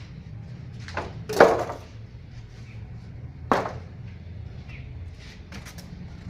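A few sharp knocks and bumps, the loudest about a second and a half in and another about three and a half seconds in, with light clicks near the end over a steady low hum.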